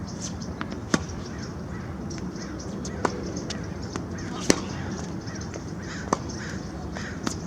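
Tennis ball struck back and forth in a baseline rally: five sharp racket-on-ball pops roughly every one and a half to two seconds, the loudest about halfway through, over a steady background hiss.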